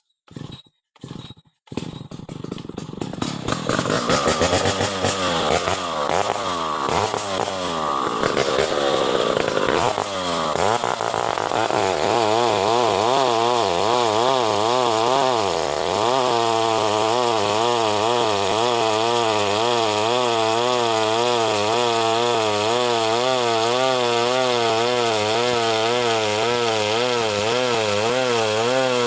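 Chainsaw cutting through the butt end of a medang log. It starts with a few short bursts, then runs continuously, its engine speed rising and falling through the first half before settling into a steady cutting note about halfway through.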